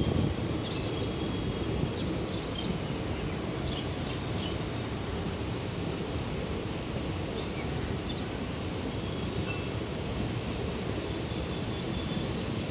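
Moving passenger train heard from a coach doorway: a steady low rumble with faint short high chirps and clicks scattered through it.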